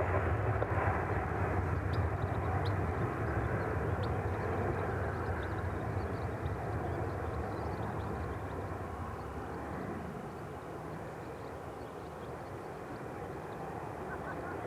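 Ryanair Boeing 737 jet engines roaring on its departure climb, a steady low-heavy rumble that slowly fades as the aircraft draws away.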